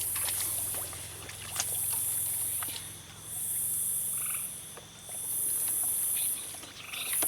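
Night swamp chorus of frogs and insects: a high, rasping chorus that swells and fades in waves about every second and a half, over a low steady drone. A brief separate call comes a little past the middle.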